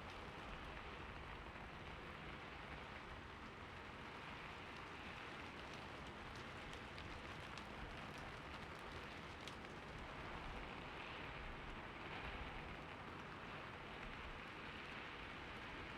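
Soft, steady rain, with scattered individual drops ticking.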